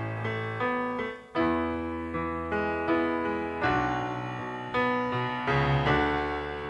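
Piano playing the song's instrumental introduction: chords and bass notes struck in a slow, even rhythm, each left to ring and fade before the next.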